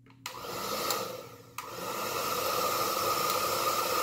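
Ion Ionic Conditioning 1875 W hair dryer switched on with a click and spinning up. It sags, then a second switch click about one and a half seconds in brings it back up to a steady blowing hiss with a faint motor whine.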